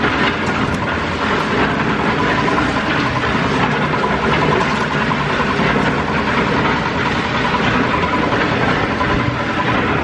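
A machine running steadily with a continuous rattling clatter and a faint pulsing whine.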